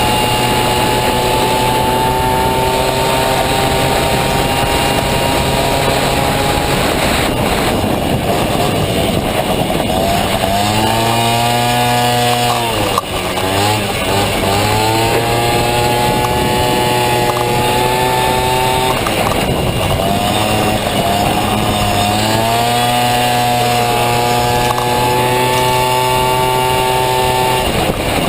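Honda Motocompo's swapped-in Dio 50cc two-stroke single-cylinder engine buzzing loud at high revs; its pitch drops sharply twice, about halfway and again later, and climbs back up each time as it is throttled off and on again.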